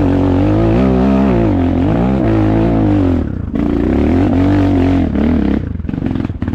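Off-road motorcycle engine revving hard and unevenly, pitch rising and falling again and again. The revs drop off sharply about three seconds in and break up near the end.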